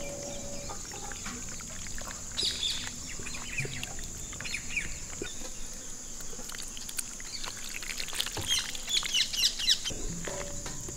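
Birds chirping in quick falling notes, with a short burst about two seconds in and a denser flurry near the end, over a steady high-pitched hiss. Scattered light clicks run under it.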